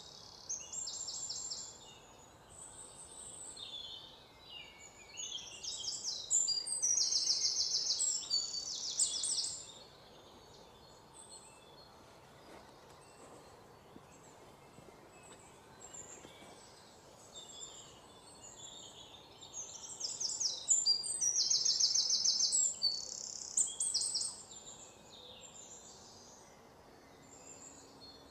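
Songbirds chirping and trilling in quick, high-pitched runs, in three loud bouts with quieter stretches between.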